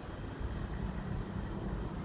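Freight train rolling past with a steady low rumble. A faint high whine runs over the rumble.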